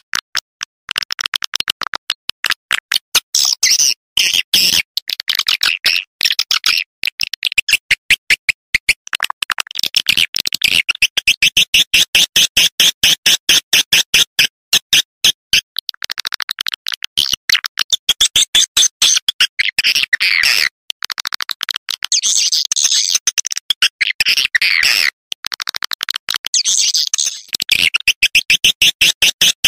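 Swiftlet calling sound (walet panggil), the lure call played to draw swiftlets: rapid runs of sharp, buzzy chirps repeated many times a second, in phrases broken by short gaps.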